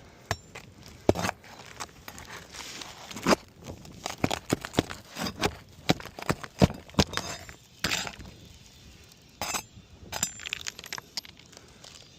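Irregular sharp metal clinks and scrapes of a tool prying at a roof shingle and its nails to work the shingle loose, in quick clusters with a few louder strikes.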